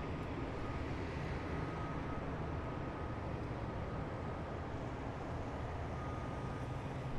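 Column of heavy military vehicles driving past, a steady low engine rumble.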